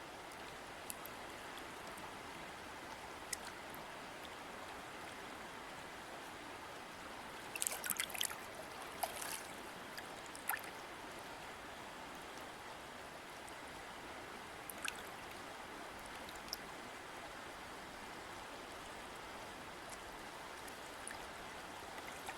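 River water flowing in a steady, even rush, with a short cluster of sharper splashes and ticks about eight to ten seconds in.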